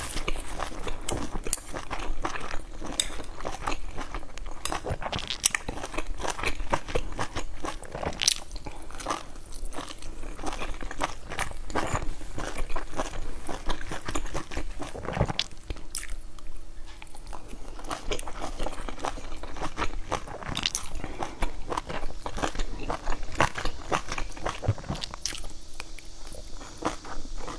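Close-miked chewing and biting of soft boiled dumplings, with a steady run of short wet mouth clicks and smacks.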